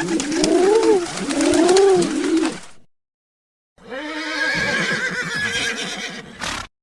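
Two animal sound-effect clips in turn: first three low calls that rise and fall in pitch, about a second apart. After a second of silence comes a longer wavering call that ends in a short noisy burst.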